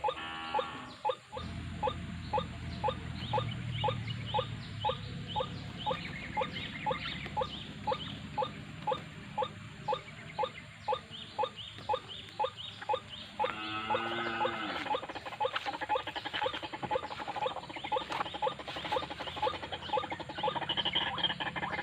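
White-breasted waterhens calling: a steady run of short repeated 'kruak' notes, about two a second. A harsher, more complex call breaks in near the start and again about two-thirds of the way through, over a low steady hiss.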